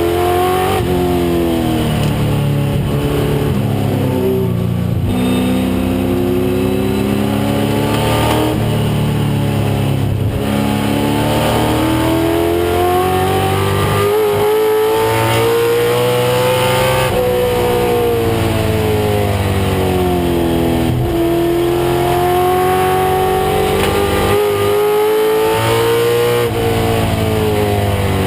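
1996 Ford Mustang race car engine under hard acceleration. Its pitch climbs steadily and then drops sharply at each gear change or lift, about half a dozen times, before climbing again.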